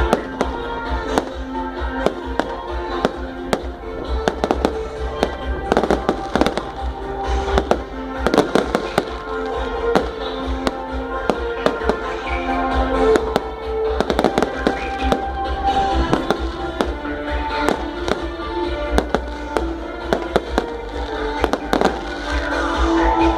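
Fireworks and firecrackers going off in a rapid, irregular string of sharp bangs and crackles, over music with held notes and a constant deep rumble.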